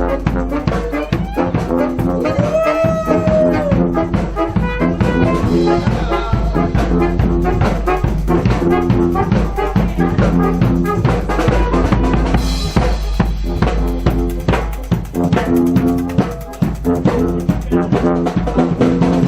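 Brass marching band playing: horns holding chords over a steady beat of bass drum and snare.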